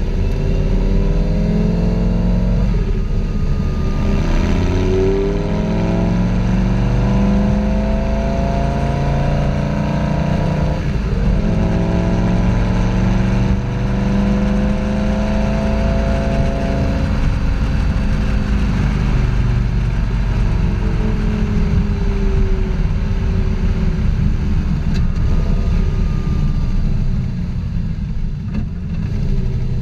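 Lamborghini Gallardo Superleggera V10 engine through an opened-up aftermarket exhaust, running loud under changing throttle. Its pitch rises and falls in slow sweeps lasting several seconds.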